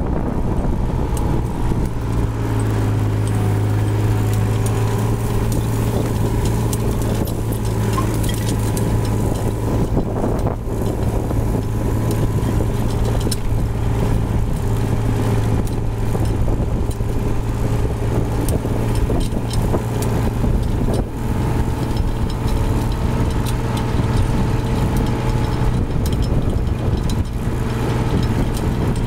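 Motor vehicle engine idling, a steady low hum that sets in about a second in and holds even throughout.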